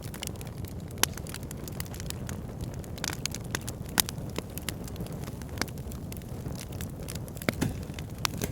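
Backyard fire pit burning: a steady low rush of flames with irregular crackles and sharp pops, the loudest about a second in, about four seconds in and around seven and a half seconds in.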